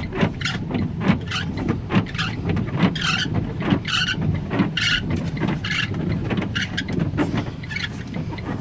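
Inside a car driving through a storm: steady road and weather noise, with a short squeak repeating about once a second.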